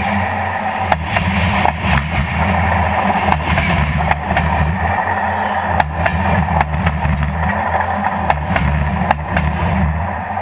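Railway carriages rolling directly overhead on their bogies, a steady deep rumble with sharp wheel clicks about every half second as the wheels run over the rail joints.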